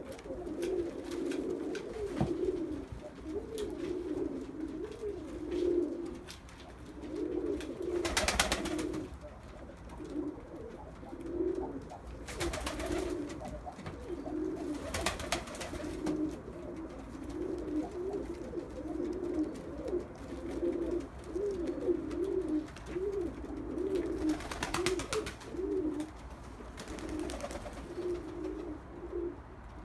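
Red Iraqi domestic pigeons cooing over and over, one low rolling coo after another. A few brief sharp noises stand out above the cooing: one about a third of the way in, two around halfway, and two more near the end.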